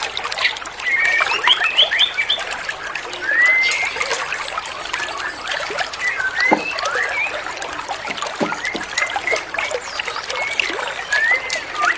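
Short whistled bird calls and chirps, some rising in pitch, scattered over a steady trickle of running water.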